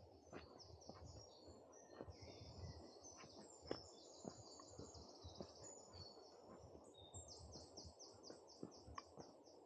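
Forest songbirds singing high, fast trills and runs of repeated notes, the longest run from about seven seconds in, over faint footsteps crunching and tapping on a woodland path.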